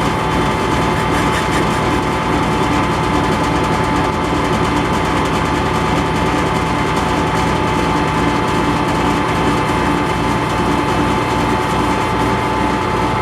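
Metal lathe running steadily under a slow, light cut on a thin sleeve: a constant machine hum with a steady high whine over it.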